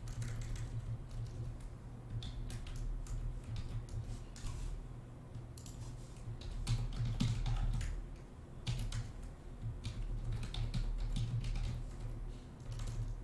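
Typing on a computer keyboard: irregular bursts of keystroke clicks over a steady low hum.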